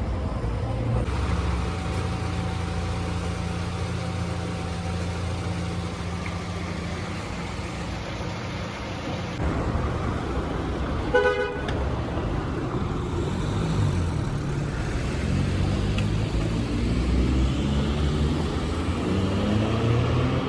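Car engine and road noise while driving, with a car horn tooting briefly a little past halfway. In the second half the engine rises in pitch several times as the car accelerates.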